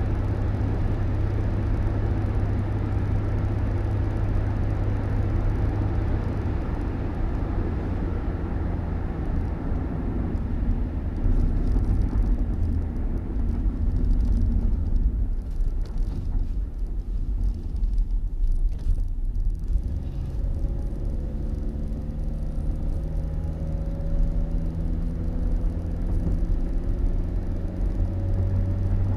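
A motor vehicle on the move: a steady low rumble, with an engine note that comes up and rises slightly in pitch about two-thirds of the way in.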